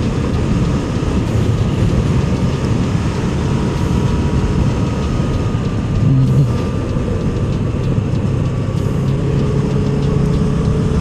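Motorcycle engine running steadily while riding, under heavy wind and road noise, its note creeping slightly upward near the end.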